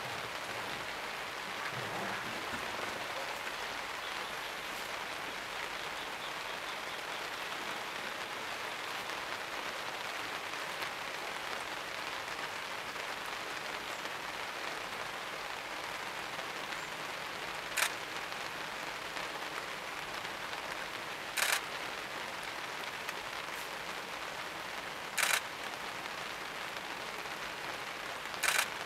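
Steady rain falling, an even hiss, with four short sharp clicking bursts in the second half.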